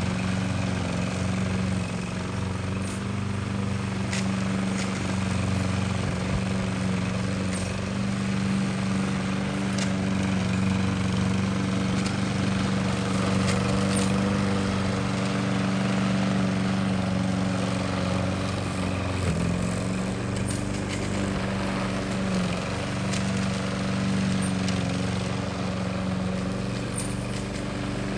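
Small petrol engine of a grass cutter running steadily at a constant pitch, dipping briefly about two-thirds of the way through.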